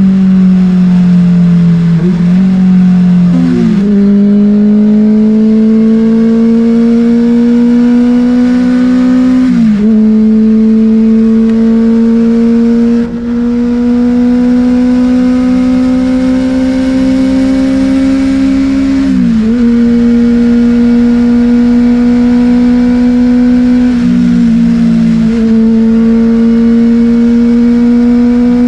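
Benelli TNT600 inline-four running through an Austin Racing exhaust with the dB killer removed, heard from onboard while riding. The engine note climbs slowly under light throttle, with a few brief drops in pitch as gears change.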